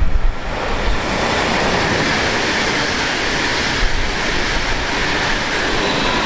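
A train passing, a steady rushing roar of wheels on the rails that builds over the first second and then holds, with wind rumbling on the microphone.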